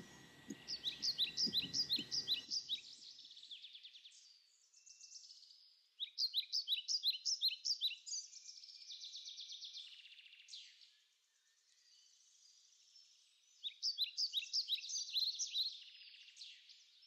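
Birdsong: bouts of quick, high chirps at about six a second, three louder bouts with softer trills and pauses between them. A faint low background sound fades out about two and a half seconds in.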